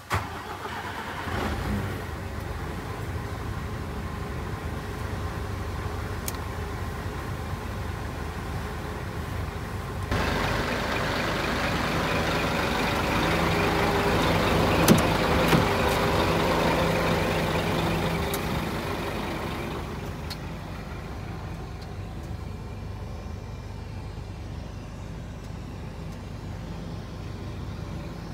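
Scania P 380 truck's diesel engine starting and running. About ten seconds in a louder, brighter running sound comes in suddenly and holds for about ten seconds with a sharp click in the middle, then fades back to a steady idle.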